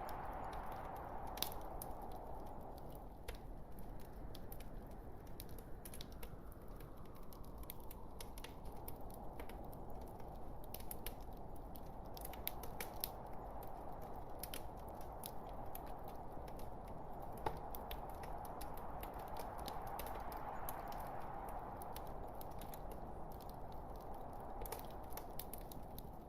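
Log fire crackling: scattered sharp pops and snaps of burning wood over a soft, steady hiss that slowly swells and fades.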